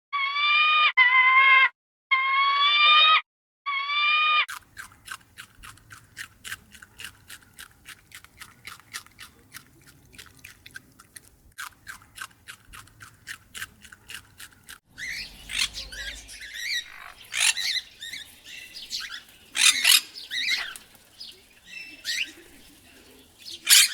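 A sequence of animal sounds: a few repeated pitched, arching calls at first, then a long run of sharp taps, about four a second, lasting some ten seconds, then scattered bird chirps and squawks, two of them loud.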